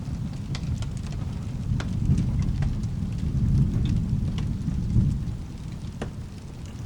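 Low rolling thunder over steady rain, swelling through the middle and fading after about five seconds, with scattered sharp crackles.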